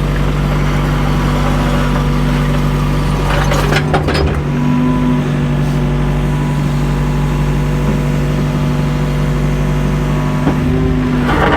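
Mini excavator's diesel engine running steadily under hydraulic load, its note shifting about five seconds in, with a couple of short scraping knocks of the bucket against the old concrete block wall, around four seconds in and near the end. The bucket is straining at a large piece of foundation wall that won't move.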